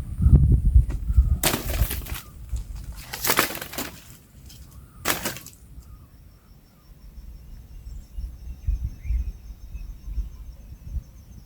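Three short crunching, rustling noises about two seconds apart, over a low rumble, like dry brush or sticks being handled. After them a faint steady insect trill, typical of crickets, carries on.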